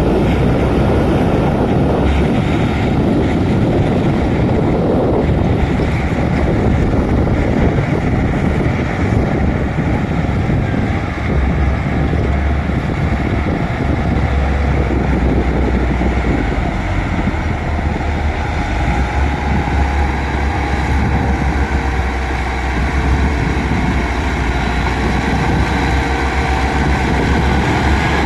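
Bulldozer's diesel engine running steadily while the machine works the ground, a loud continuous low rumble. A faint tone rises slightly near the end.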